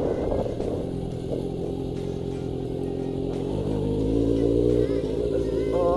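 Honda CB400 motorcycle engine running under way in a steady drone. About three and a half seconds in its pitch steps and it grows louder as the bike pulls.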